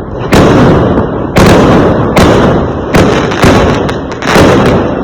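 Fireworks exploding one after another: about six loud bangs in five seconds, each with a rumbling tail that runs into the next.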